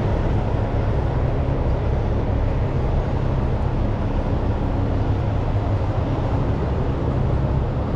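Truck engine running steadily: an even, low rumble with no change in pace.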